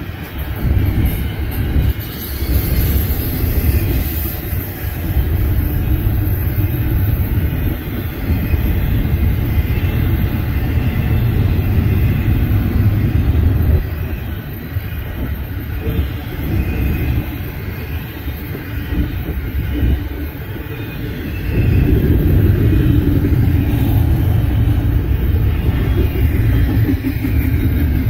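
A freight train's cars rolling past on the rails at close range, a continuous loud running noise of wheels and cars. It eases a little around the middle and grows louder again in the last few seconds.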